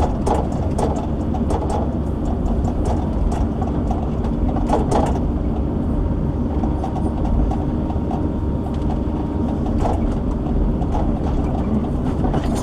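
Diesel engine of a shovel-logging machine running steadily under load while its hydraulics work a heavy log, with a couple of knocks, about 5 and 10 seconds in.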